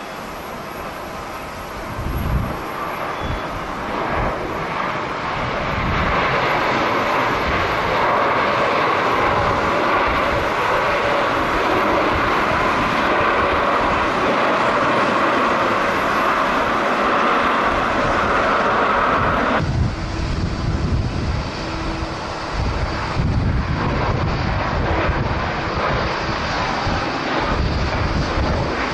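Jet airliner's engines, building over the first few seconds and then staying loud and steady. About twenty seconds in the sound changes abruptly to a lower rumble, with strong wind buffeting the microphone.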